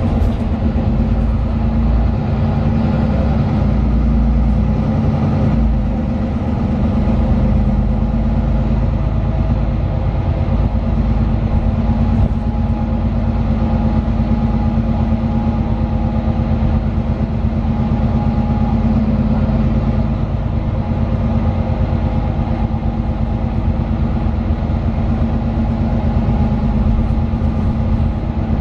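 Mercedes-Benz OM 936 six-cylinder diesel engine of a Citaro 2 city bus running steadily, heard from inside the passenger cabin as a constant droning hum with low rumble.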